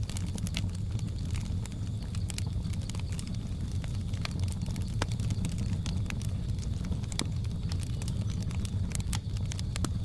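Wood fire crackling, with scattered sharp pops and snaps at irregular intervals over a steady low rumble of the burning fire.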